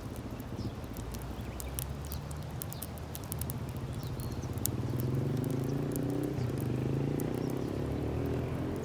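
Wood fire crackling with sharp pops and snaps, over a low engine drone in the background that grows louder and rises in pitch about halfway through.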